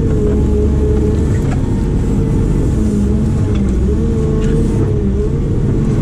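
Diesel engine of a heavy earthmoving machine running steadily under load, with a high hydraulic whine that wavers slightly in pitch as the machine works.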